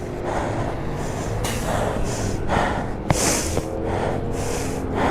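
Rapid, rhythmic hissing breaths, about one and a half a second, like a person breathing hard, over a steady low rumble.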